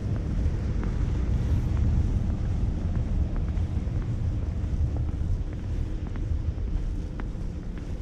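Snowy city street at night: a low, steady rumble of wind buffeting the action camera's microphone over distant traffic, swelling a little in the first few seconds, with faint scattered ticks.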